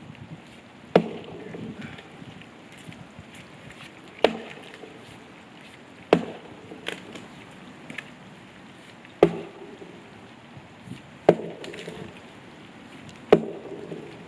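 Axe chopping into a dead tree: about six heavy blows, each a sharp crack, roughly two seconds apart, with a lighter blow in between.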